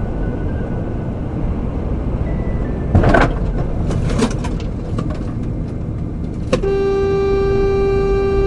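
Car driving with steady road and engine rumble, a brief loud noisy bang about three seconds in, then a car horn held in one steady blast from about two-thirds of the way through.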